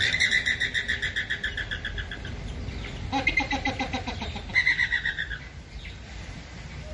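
Flamingos calling: fast runs of repeated nasal honks, with a lower-pitched run of calls about three seconds in and another burst of honks near the middle of the clip.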